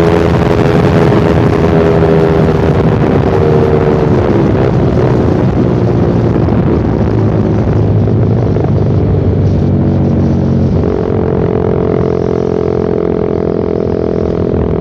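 Motorcycle engine through a short Pro Liner aftermarket muffler with no dB killer, ridden hard at high revs on the road. The pitch drops about four seconds in and climbs again about eleven seconds in.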